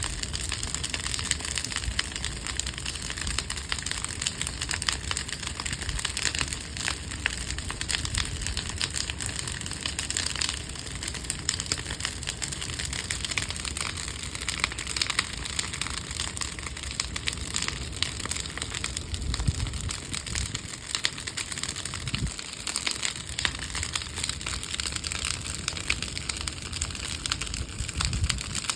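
Bonfire of wooden pallets burning, with a dense, steady run of crackles and pops over a rushing noise.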